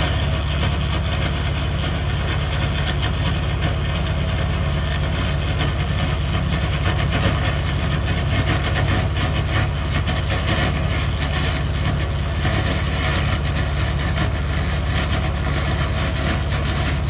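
SFX 2000 W handheld laser rust remover at work: a steady low hum with a dense, fine crackle as the laser strips rust from metal.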